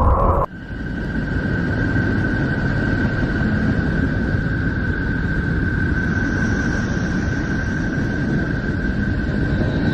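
Sonified space recording, spacecraft-detected electromagnetic signals converted to audio: a steady low rumbling noise with one thin steady high tone above it. It starts abruptly about half a second in, replacing a different sound, and a fainter higher tone joins about six seconds in.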